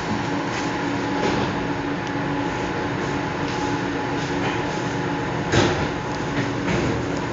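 Cabin noise of an electric commuter train slowing into a station: a steady running rumble with a constant hum. A short, louder knock comes about five and a half seconds in.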